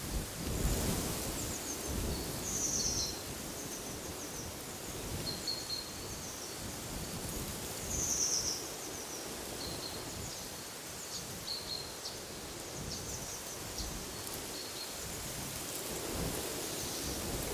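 Wild birds giving short high chirps every few seconds over a steady wash of wind in trees, with low rumbling gusts near the start and near the end.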